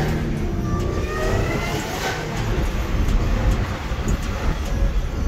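Supercharged V6 of a 2013 Audi A6 fitted with an aftermarket cold air intake, heard from inside the cabin while driving: a rising whine as the car accelerates over the first two seconds or so, then a steady low drone.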